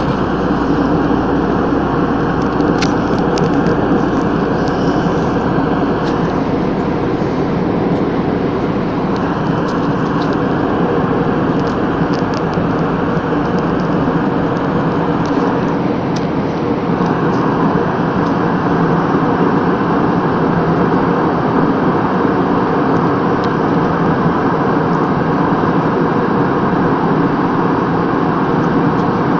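Steady drone of an airplane in flight: continuous engine and rushing-air noise with a low, even hum, and a few faint clicks.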